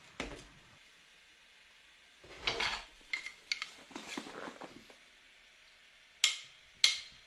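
Kitchen dishes and utensils being handled: a string of separate short clinks and knocks, with a few seconds' gap in the middle.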